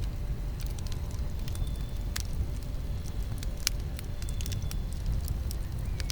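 Campfire crackling: irregular sharp pops and snaps over a steady low rumble, with a few faint high whistles now and then.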